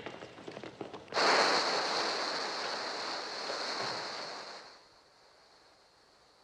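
The film's synthesized gull sounds of a flock attacking: a dense, noisy mass of screeching and wings that bursts in loudly about a second in, then fades away a few seconds later.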